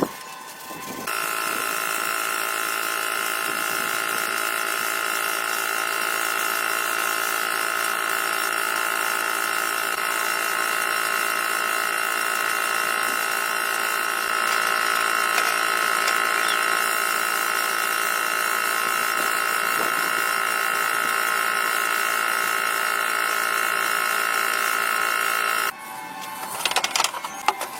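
Electric power tool motor running steadily with a high whine, slightly louder about halfway through, then cutting off suddenly near the end, followed by a few clicks and knocks.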